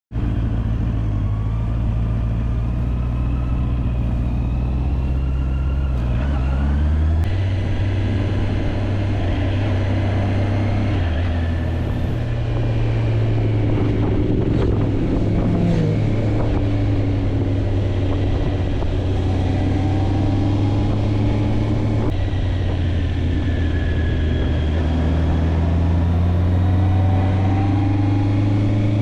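Motorcycle engine running steadily under way, heard from on board, its note stepping to a new pitch about seven seconds in and again a few seconds later as the revs change.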